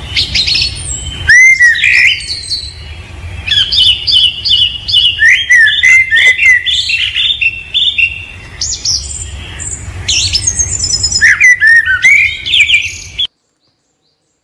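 Several birds chirping, whistling and trilling at once in a busy chorus of short, quick calls, over a steady low rumble. The sound cuts off suddenly near the end.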